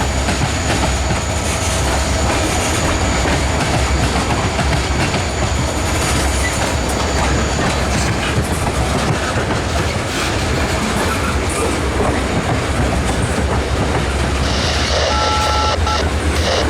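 Freight train of tank cars rolling slowly over a railroad diamond crossing, the wheels clattering across the crossing with a steady heavy rumble. A brief high squeal comes near the end.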